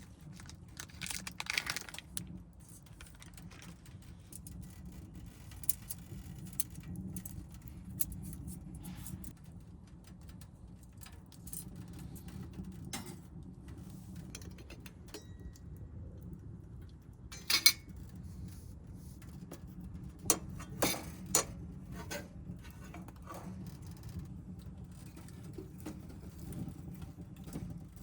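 Metal cooking gear being handled while mochi toasts on a grill net over a wood stove: scattered light clicks and clinks over a low steady rumble, with a few sharper knocks near the middle and again a few seconds later.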